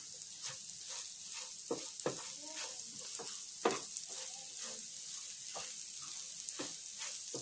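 Vegetable pieces frying with dry masala powder in a kadai, giving a steady sizzle. A spatula stirring makes irregular scrapes and taps against the pan.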